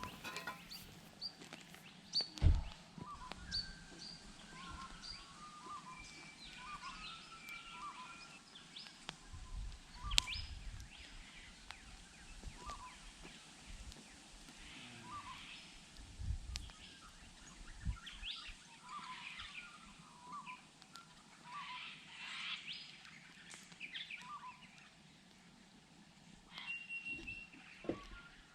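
Wild birds calling outdoors: many short, repeated chirps and whistled notes from more than one bird. A few sharp clicks and low knocks come in between, the loudest about two and a half seconds in.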